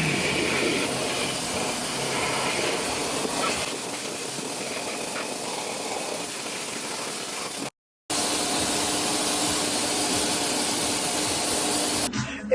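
Vacuum cleaner running steadily, a rushing hiss with a low motor hum, cut off by a brief silent gap about eight seconds in before it runs on.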